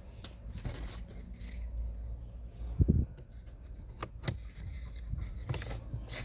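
Plastic clicks and rustling as a cabin air filter and its housing are handled, with a dull thump about three seconds in.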